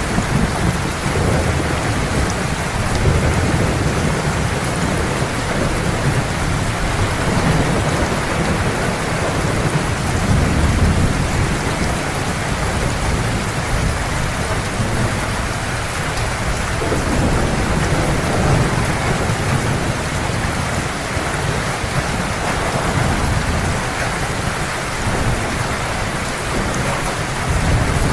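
Heavy rain falling steadily on surfaces, with low rolling thunder rumbling and swelling in and out underneath.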